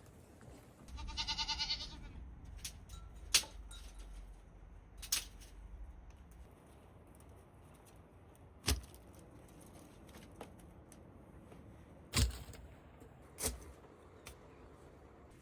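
One short, wavering bleat from a sheep or goat about a second in, followed by a few scattered knocks and clicks.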